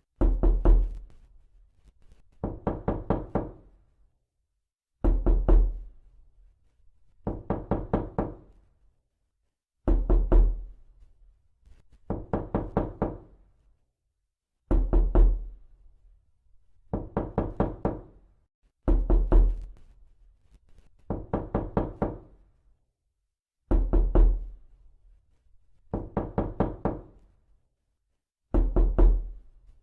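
Knocking in quick bursts of about five to seven knocks, with a short pause between bursts, repeating steadily.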